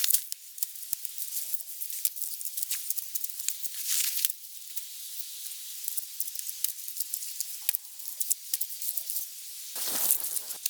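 Wood fire crackling and hissing, with many sharp irregular pops. A louder rushing burst comes about four seconds in and another near the end.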